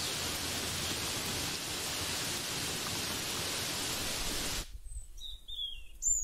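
Steady rain hiss, an even wash of noise, that cuts off suddenly about four and a half seconds in. A few short, falling bird chirps follow near the end.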